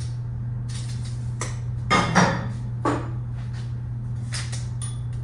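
A few sharp clanks and knocks of metal parts and tools being handled, the loudest cluster about two seconds in, over a steady low hum.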